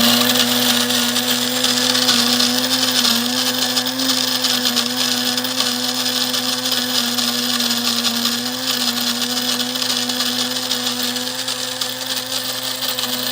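Cuisinart DBM-8 Supreme Grind electric burr mill running on its finest setting, grinding coffee beans: a steady motor hum with a dense grinding rasp.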